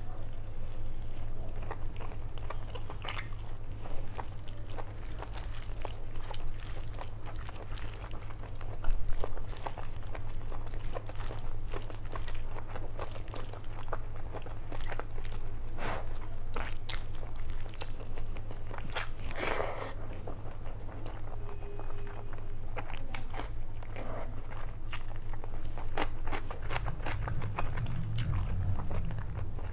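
Close-miked chewing and wet mouth sounds of a person eating mutton biryani by hand, with many small clicks and smacks, and fingers squishing through the rice. A steady low hum runs underneath.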